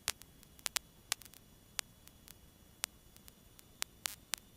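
Irregular sharp clicks and crackles of static on the aircraft's radio and intercom audio feed, over faint hiss, between transmissions.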